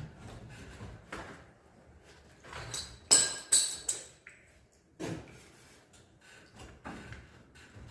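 Metal parts and tools clanking and scraping during engine removal work on a car, with two sharp ringing metallic clanks about three seconds in.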